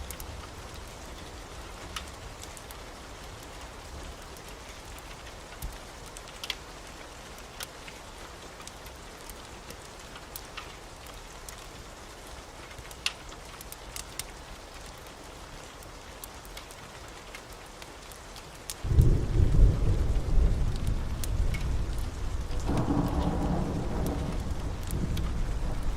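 Steady heavy rain with scattered sharp ticks. About two-thirds of the way through, a sudden loud rumble of thunder breaks in, swells again a few seconds later and keeps rolling.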